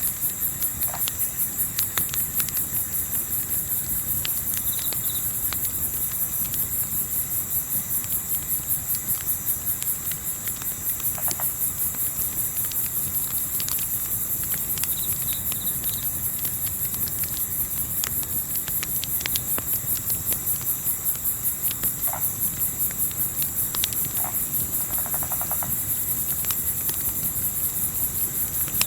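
Crickets chirping in a fast, steady pulse throughout, with scattered sharp crackles of a campfire and a low rumble underneath.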